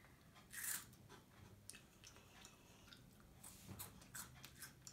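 Faint crunching as a crispy spicy snack fry is bitten and chewed: one louder crunch a little under a second in, then scattered small crackles of chewing.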